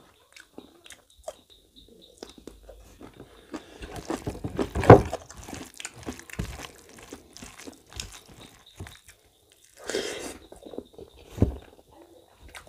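Close-up chewing and mouth smacking of a person eating mutton innards curry and rice by hand, in a run of short wet clicks with louder spells of chewing about five seconds in and again near ten seconds.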